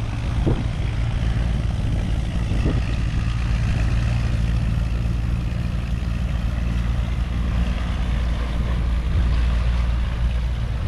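A large cabin cruiser's engines running at low speed as it motors slowly out of the lock, a steady low hum.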